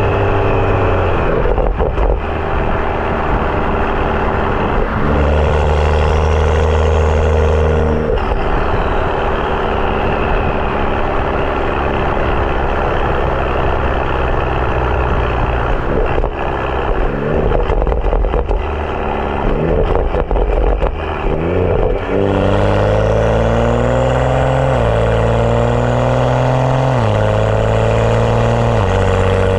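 BMW 335i's N55 turbocharged inline-six, with a catless downpipe and M Performance exhaust, running while driving. It holds a steady note, then about two-thirds of the way in accelerates hard, the pitch rising and dropping at each upshift, three shifts in quick succession.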